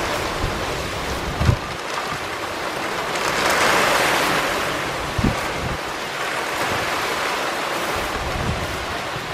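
Heavy rain falling steadily in a downpour, growing louder about three to four seconds in, with wind gusting and a few low buffets of wind on the microphone.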